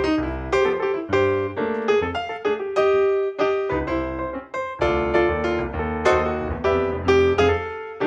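Background piano music: a melody of struck notes that ring and fade one after another.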